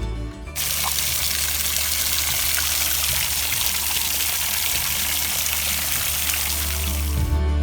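Steady rush of running water, starting about half a second in and giving way near the end, with a low hum underneath.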